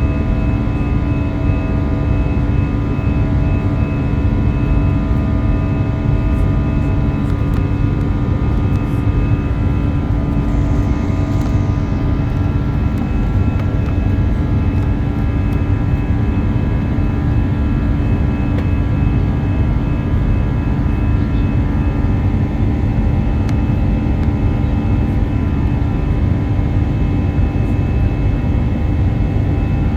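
Airbus A321 jet engines heard from inside the passenger cabin at high power: a loud, steady rumble with several steady engine tones over it.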